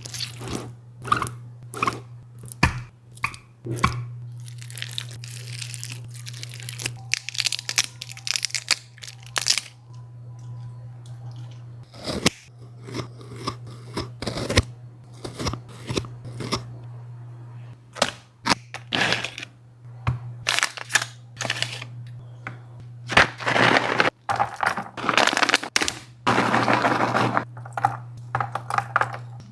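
A dog eating: irregular crunching, tearing and chewing bites, with longer noisy bursts of chewing toward the end, over a steady low hum.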